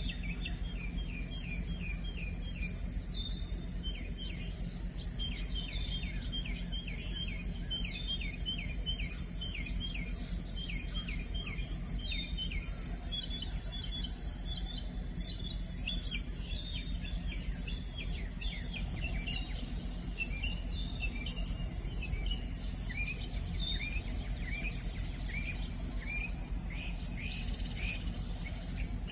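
A steady, high-pitched insect chorus that drops out briefly every few seconds, with birds chirping in quick runs of short notes.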